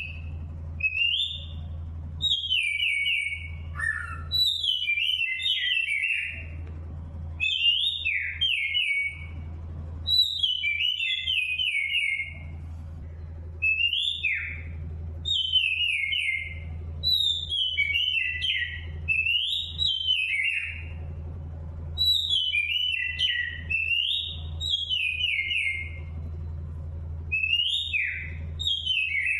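Birds singing: short clear whistled notes that slide down in pitch, repeated in quick phrases every second or so, over a steady low hum.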